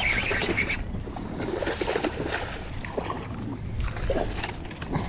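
Water lapping against a fishing boat's hull, with low wind rumble and a few faint small knocks.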